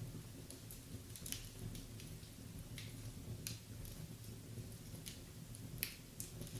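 Wood fire burning in a fireplace: irregular sharp crackles and pops from the burning logs, the loudest near the end, over a steady low rumble.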